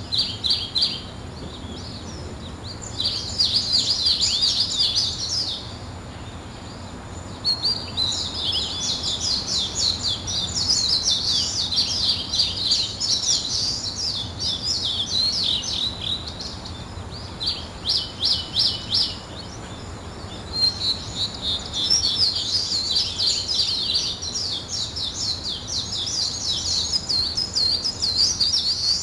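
Songbirds singing and chirping in bursts of rapid high twittering, with short pauses between phrases. Near the middle comes a run of evenly repeated notes.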